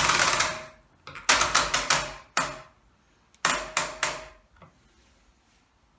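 Sharp mechanical clicks in two quick clusters, about a second in and again about three and a half seconds in, from the controls of a Hoover Electra 535 Dual Spin washing machine being set for a normal hot wash with the heater on, after a short burst of noise at the start.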